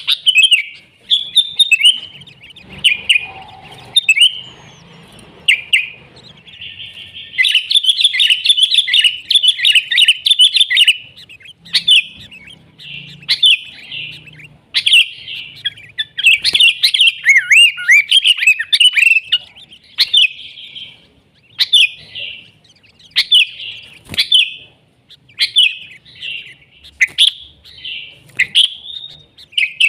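Sooty-headed bulbul (kutilang) singing vigorously: a dense, unbroken run of short whistled and warbled chirping phrases, with a few sharp clicks between them.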